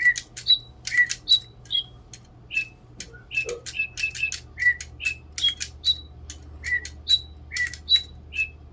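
DigiBirds electronic toy birds chirping: a quick run of short, high tweets at about three different pitches, two or three a second, stopping just before the end.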